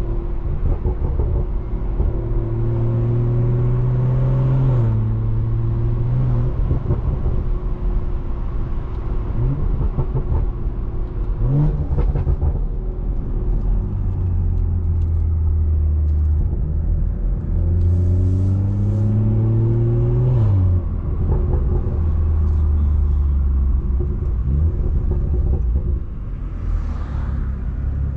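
Tuned, straight-piped BMW 340i turbocharged straight-six running under way. Its engine note climbs with the revs and drops sharply twice, at upshifts.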